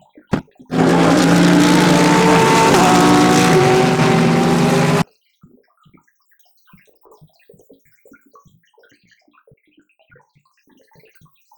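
GT3 race car engine running at high revs, loud and steady for about four seconds, then cutting off abruptly about five seconds in. Only faint, scattered sounds follow.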